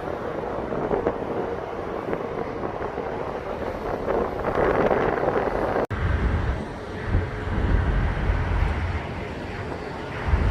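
Outdoor truck-stop ambience: a steady wash of vehicle and truck engine noise that swells about four and a half seconds in. It drops out for an instant near six seconds, and a low rumble follows.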